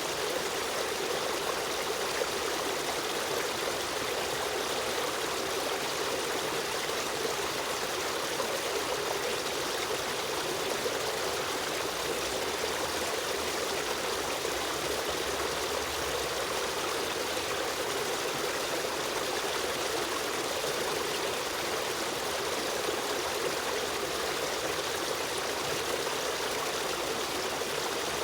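A shallow river stream running steadily over stones, a continuous rush of water with trickling.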